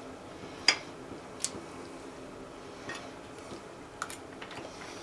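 Utensils clinking against dishware a handful of times, a few separate sharp clicks with the first the loudest, as the finished chicken mole is served and eaten.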